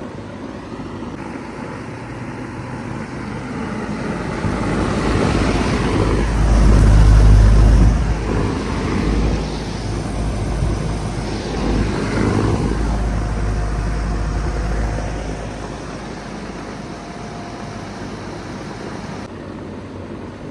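A vehicle passing by, swelling to a loud low rumble about six to eight seconds in and fading away by about sixteen seconds. Underneath is the steady whoosh of a 2-ton Bard wall-hung heat pump running in cool mode.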